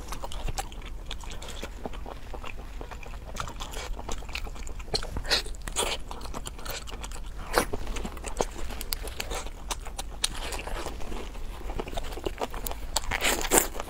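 Close-miked biting and chewing of spicy marinated seafood and perilla leaves: an irregular run of crunchy, wet mouth clicks.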